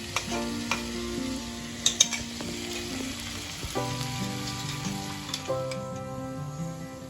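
Spice paste sizzling in hot oil in a pan while it is stirred, with a few sharp clinks of the spatula against the pan, the loudest about two seconds in. Background music of held notes plays underneath.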